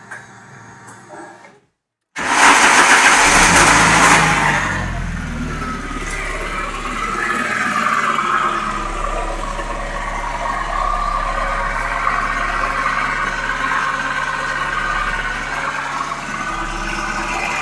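The 9A 2.0-litre 16-valve four-cylinder engine of a VW Passat B3, run on a Megasquirt engine management system, starts about two seconds in. It runs loud and high for about two seconds, then settles into a steady idle.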